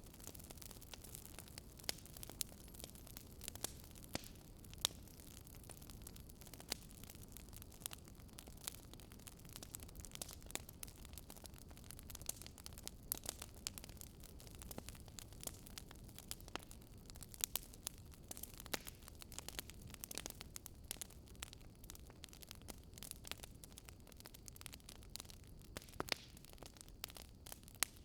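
Wood fire in a fireplace crackling, with irregular sharp pops and snaps over a faint low rumble and hiss.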